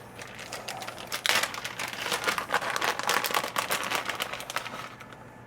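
Plastic packaging crinkling and rustling in irregular crackles as a bag of mild cheddar cheese is handled and opened, strongest from about a second in until shortly before the end.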